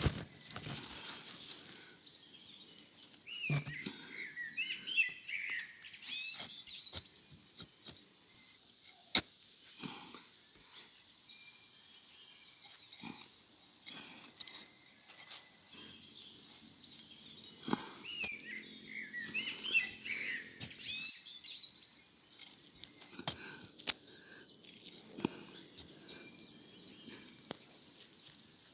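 Birds chirping in short, quick, curving phrases, in two spells of a few seconds each, with scattered sharp knocks and clicks between them.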